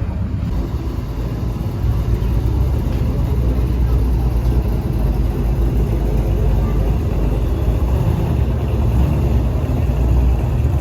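A car engine running with a steady low rumble that gets slightly louder about two seconds in.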